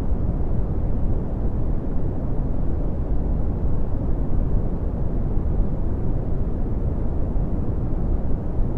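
Steady red (Brownian) noise: a deep, even rumble-like hiss with most of its energy in the low end, fading away toward the high end.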